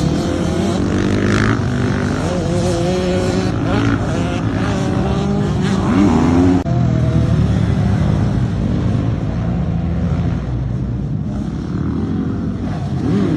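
Motorbike engines running and revving, their pitch rising and falling, with a sudden change partway through as one clip gives way to another.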